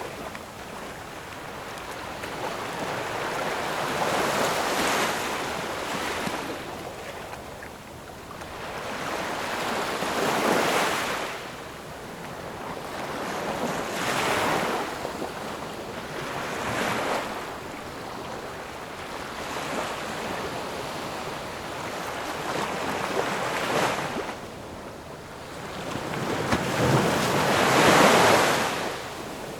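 Ocean waves breaking and washing on a shore, one after another every few seconds, with the largest wave near the end, over a steady wind hiss.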